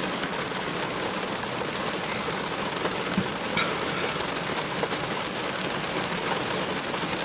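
Steady rain falling, an even constant hiss with a couple of faint ticks of drops.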